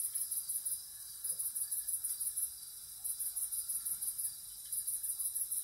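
Crickets chirping in rapid trains broken by short pauses, from the soundtrack of a campfire scene played through a TV speaker.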